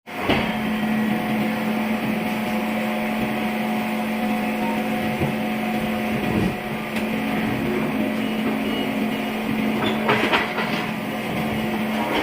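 A machine running steadily with a constant hum, and a short cluster of knocks about ten seconds in.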